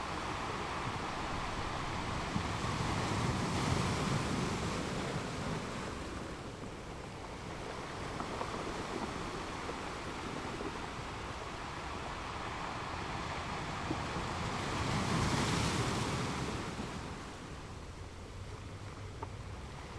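Ocean waves washing onto a shore, with two swells that build and fall away: one about a quarter of the way in and a louder one about three-quarters through.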